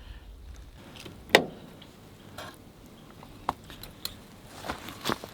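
A few light clicks and taps of a knife and fork against a plate, the sharpest one about a second in.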